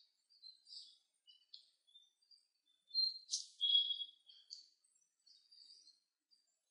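Faint, scattered high chirps and tweets, like small birds calling in the background, loudest about three to four seconds in.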